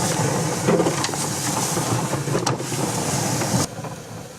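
Manual push road sweeper rolling over pavement, its wheel-driven brushes sweeping up fallen leaves with a steady rustling rattle and small clicks. It cuts off suddenly about three and a half seconds in.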